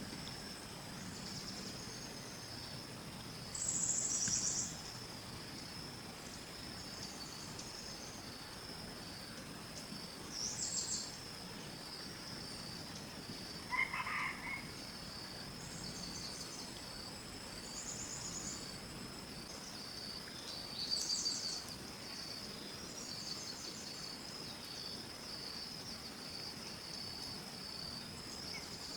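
Insects chirring in a steady high drone, with louder, higher bursts every few seconds and one short, lower call about halfway through.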